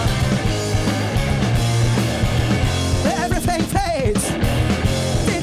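Live noise-rock band playing loud and dense: distorted guitars, bass and drums. A wavering, bending higher line comes in about three seconds in.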